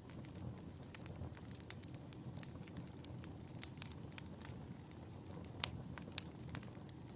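Wood fire crackling in a fireplace: a steady low rush of burning with frequent sharp pops and snaps, the loudest pop a little past the middle.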